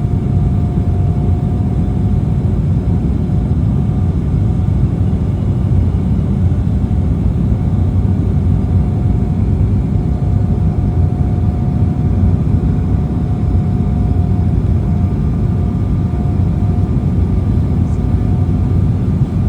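Steady cabin noise inside an Embraer E190 jet airliner: a low rumble from the engines and airflow, with a thin steady whine above it.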